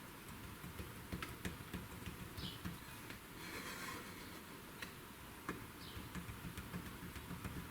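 Near-quiet workshop room tone with scattered faint light clicks and ticks and two brief faint high squeaks. No knocking is heard.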